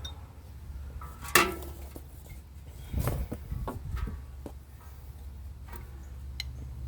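A few sharp metallic clanks and knocks from parts and tools being handled, the loudest about a second and a half in with a short ring, over a steady low hum.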